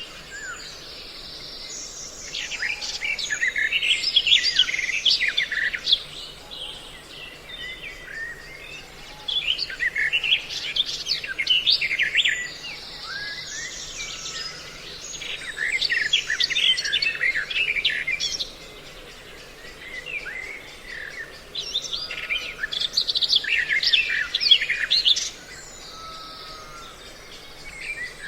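A recorded mix of songbird calls used as a trapping lure. Bursts of dense, high chirping lasting a few seconds come every several seconds, with quieter, scattered calls between them.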